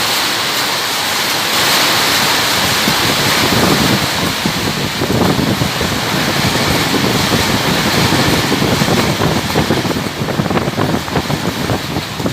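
Loud storm wind with rain, gusting and buffeting the microphone in irregular low thumps.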